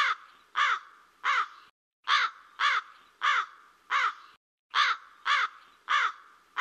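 Cawing bird calls repeated in quick runs of about four, with short pauses between the runs.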